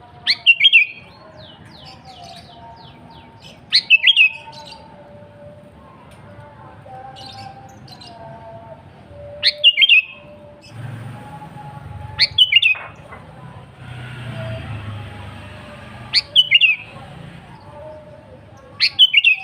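Sooty-headed bulbul (kutilang) calling: six loud, short phrases of sharp notes a few seconds apart, with fainter twittering between them.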